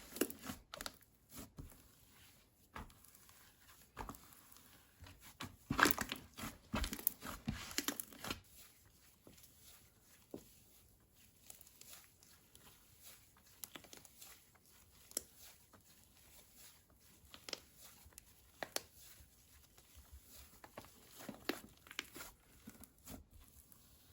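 Slime being squished and stretched by hand, giving irregular crackling clicks and small pops, densest for a few seconds near the start and sparser afterwards.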